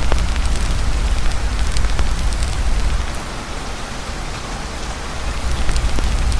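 Heavy rain falling steadily, with scattered sharp pops of a crackling campfire. A deep rumble underneath fades out for about two seconds midway, then returns.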